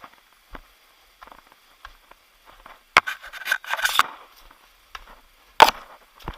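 Irregular scrapes and knocks: a cluster of scraping about three seconds in, then one sharp knock near the end.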